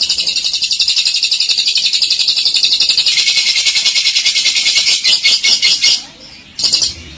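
Lovebird giving its long 'ngekek' song: a rapid, high, evenly pulsed chattering trill that runs for about six seconds and then stops, with one brief burst of the same chatter near the end.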